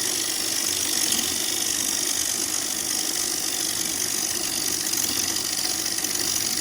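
A turning tool cutting a spinning ambrosia maple bowl blank on a Central Machinery wood lathe: a steady, unbroken hiss of wood being cut over the steady hum of the running lathe.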